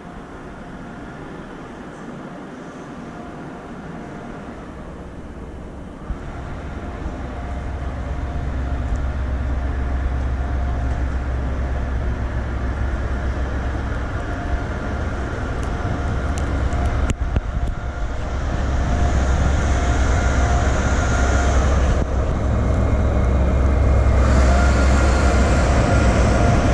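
A train running, its low rumble and steady mechanical drone growing louder from about six seconds in, with a high hiss joining later on.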